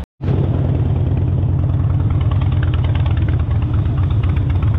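Harley-Davidson V-twin motorcycle engine running steadily with an even pulsing beat, cutting in abruptly after a split-second gap.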